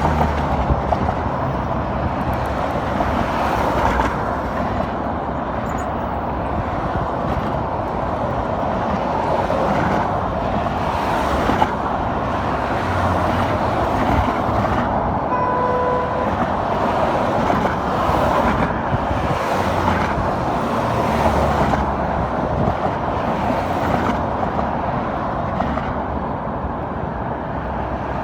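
Car running with steady road and engine noise, and a brief short beep about halfway through.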